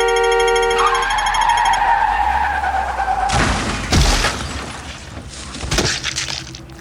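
Sound-effect car horn blaring, then tyres screeching for about two seconds, followed by a crash with several heavy impacts: a car skidding into someone.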